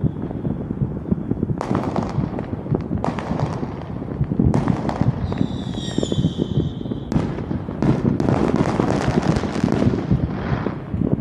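Fireworks going off: a quick run of bangs and crackles over a low rumble. A steady high whistle sounds from about five to seven seconds in, followed by a dense stretch of crackling.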